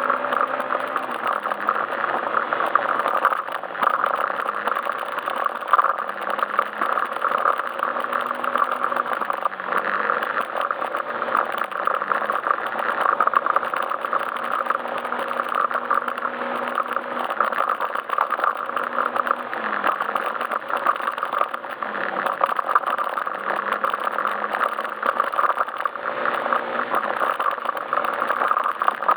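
Yamaha Majesty S scooter's single-cylinder engine under way, its note rising and falling every few seconds as the throttle opens and closes, with a steady rush and rattle of riding noise over it.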